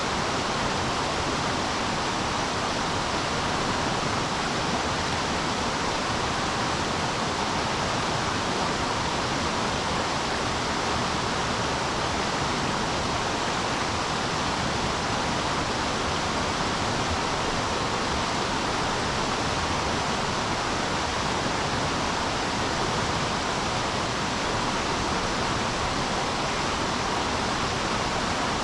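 Rushing river water, a steady even hiss of current with no breaks or changes.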